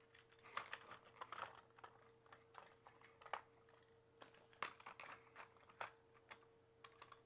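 Faint, scattered light clicks and taps of small plastic toy trucks being handled, over a faint steady hum.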